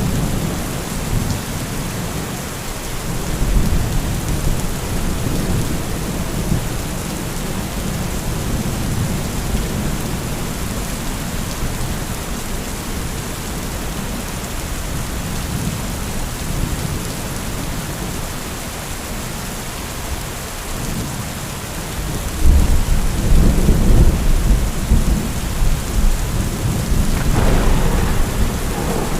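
Heavy thunderstorm: steady heavy rain hissing, with rolling thunder rumbling underneath. A deeper, louder peal of thunder breaks about three-quarters of the way through and rolls on, with a sharper crackle near the end.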